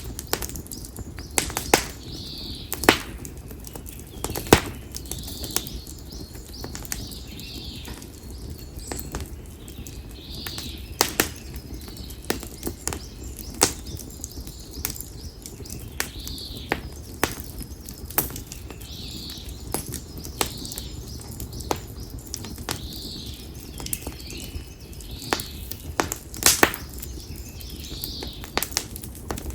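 Konara oak firewood burning in a campfire, crackling with sharp, irregular pops. A bird gives a short high call every few seconds.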